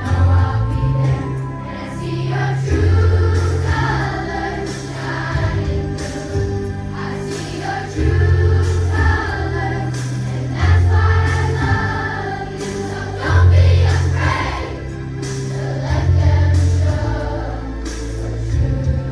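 A children's choir singing in chorus over accompanying music with a heavy, pulsing bass line.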